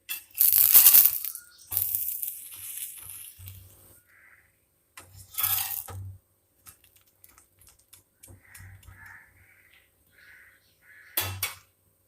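Metal utensil clattering and scraping against a hot oiled dosa tawa while bread slices are toasted and turned, in a few sudden loud bursts.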